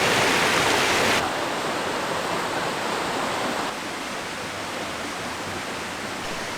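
River water rushing over rocks, a steady noisy rush that drops suddenly to a quieter level about a second in and again near four seconds.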